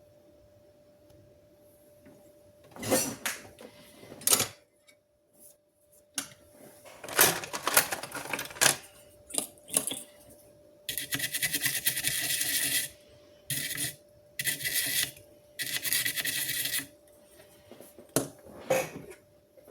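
Small tools and parts clattering and clicking on a workbench, then four bursts of a small motor-driven whirring hiss, each lasting about half a second to two seconds. A faint steady hum runs underneath.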